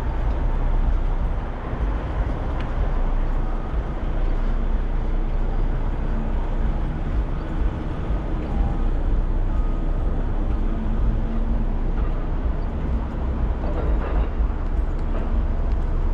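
Steady highway traffic noise: a continuous rumble of passing cars with no single vehicle standing out.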